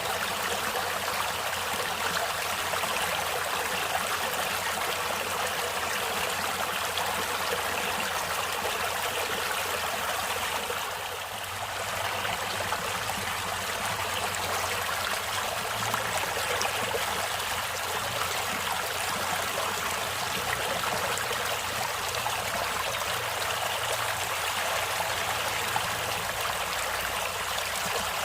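A stream of running water flowing steadily, with a brief dip in level about eleven seconds in.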